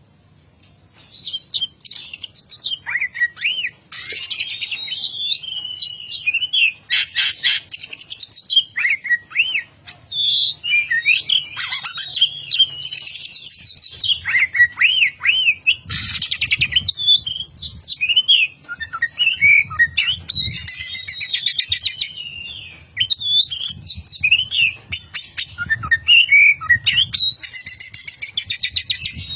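Oriental magpie-robin (kacer) in full loud song: a continuous run of varied whistled phrases sliding up and down, broken several times by fast, rattling trills.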